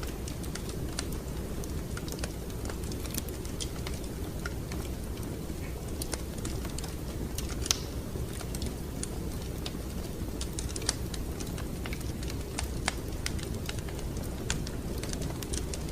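Wood fire crackling in a fireplace: irregular sharp pops and snaps over a steady low rumble of flames, with one louder pop about halfway through.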